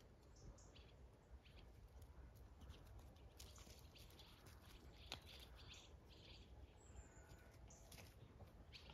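Near silence: faint outdoor ambience with a low rumble and small birds chirping now and then, plus scattered light ticks and one sharp click about five seconds in.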